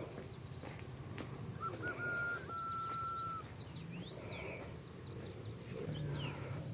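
Several wild birds singing and calling: rapid high trills, quick falling chirps, and one long level note lasting nearly two seconds, over a steady low rumble.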